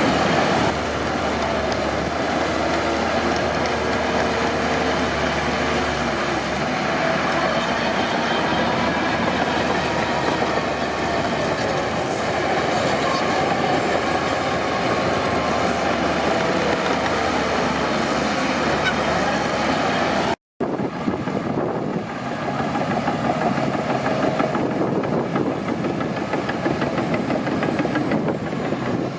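Crawler bulldozer working, its diesel engine running steadily under a dense clatter of tracks and machinery. The sound drops out for a moment about two-thirds of the way in.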